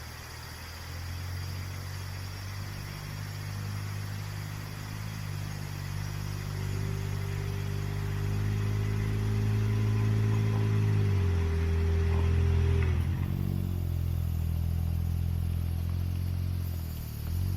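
Suzuki Jimny JB23W's small three-cylinder turbo engine running as the car drives along a gravel forest road, with a steady engine note that changes pitch about eleven seconds in and again shortly after.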